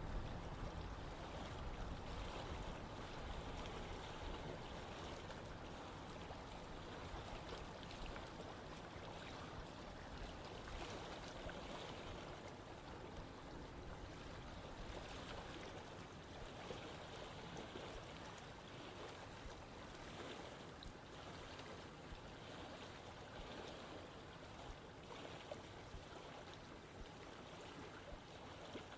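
Running water of a stream flowing steadily, an even rushing and babbling without pauses, a little louder in its low end during the first few seconds.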